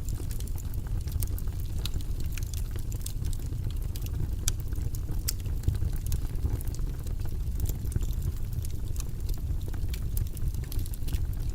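Steady, deep white-noise background running evenly, with scattered light clicks on top.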